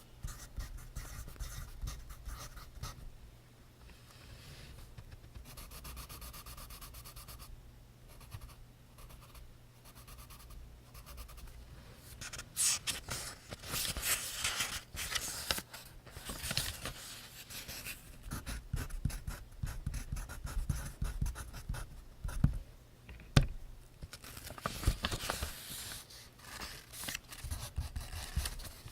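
Pencil writing on notebook paper: runs of scratchy strokes that grow louder and busier from about halfway through, with a couple of sharp taps a little past the two-thirds point.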